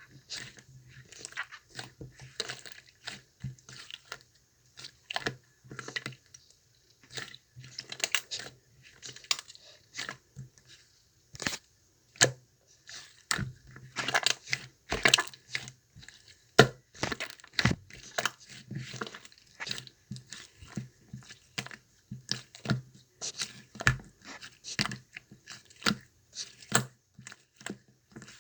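Irregular close-up handling noises: crinkling and tearing sounds broken by many sharp clicks and taps.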